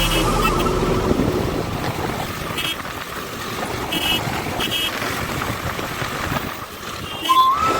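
Wind and traffic noise from a motorcycle ride, with a few short horn beeps. Near the end there is a short rising whistle.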